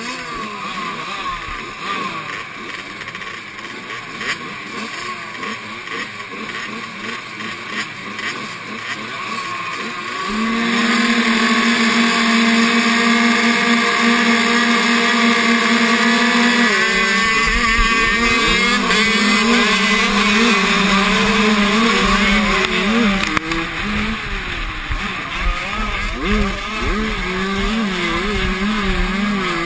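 Motocross motorcycle engines running. About ten seconds in, a nearer engine grows louder and holds a steady high rev for about six seconds, then its revs rise and fall repeatedly.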